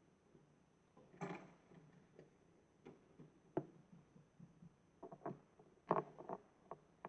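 Scattered plastic clicks, knocks and a short rattle from a toy garbage truck and its bins being handled: a rattle about a second in, a sharp click midway and a cluster of knocks near the end.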